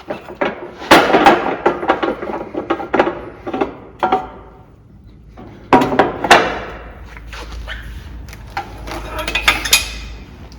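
Steel parts of a coil spring compressor clattering and knocking as its bracket is moved and repositioned: a run of irregular clanks, with two sharp knocks about six seconds in and another flurry near the end.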